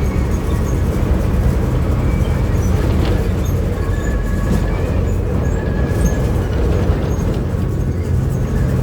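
VW 17-230 OD city bus, heard from inside, running on the road: a steady low diesel engine and road rumble with faint whining tones and light scattered rattles.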